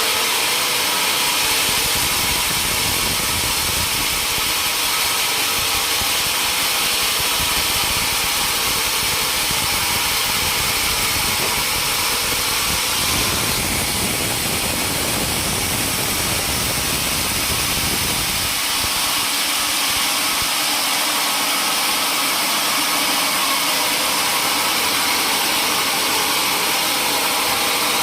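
Sawmill machinery running steadily with an engine-like drone. A deeper rumble comes in about halfway through and drops away again a few seconds later.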